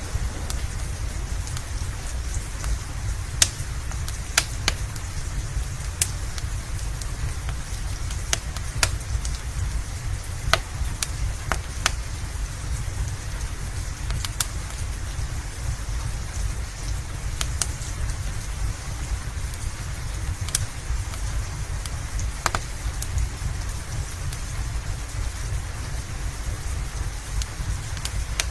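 Steady rain over a low rumble, with a wood fire's sharp crackles and pops at irregular intervals, about one every two seconds.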